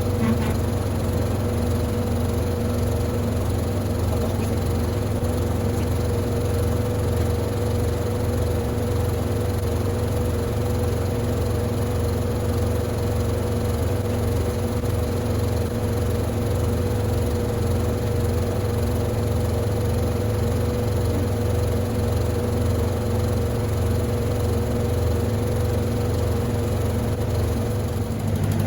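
Electrolux LTD15 top-loading washing machine running steadily: a constant low motor hum with a steady mid-pitched whine over it.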